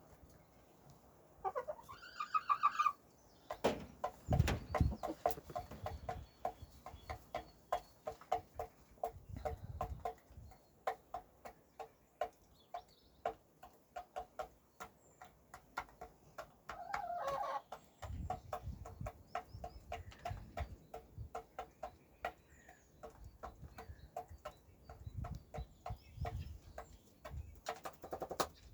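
A chicken clucking over and over in short, evenly spaced clucks, about two or three a second, with a longer drawn-out call about two seconds in and another about midway. Occasional low thumps sound underneath.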